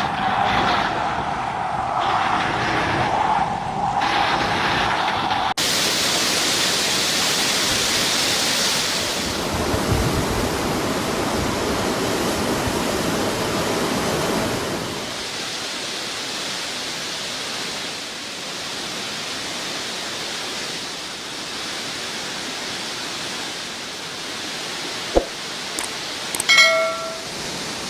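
Floodwater rushing in a steady noisy roar, heard across several cut-together clips. Near the end come two sharp clicks and a brief pitched tone with overtones.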